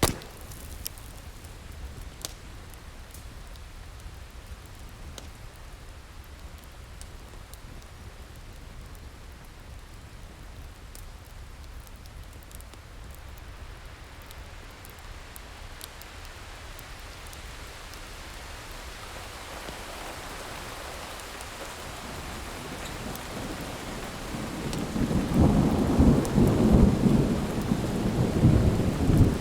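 Thunderstorm: steady rain with a long rumble of thunder that builds from about two-thirds of the way through and is loudest near the end. A wood fire crackles over it, with a sharp pop at the start and a few fainter pops after.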